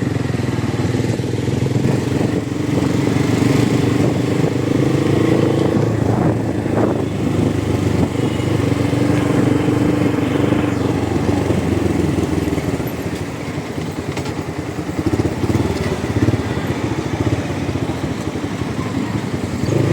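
Motorcycle engine running under way in city traffic. It eases off about two-thirds of the way through, then picks up again.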